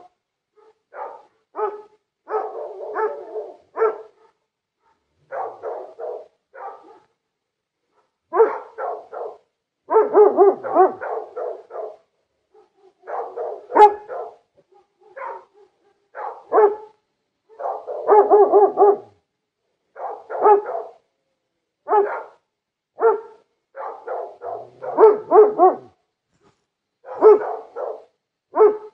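A big dog barking over and over, in quick runs of several barks separated by short pauses.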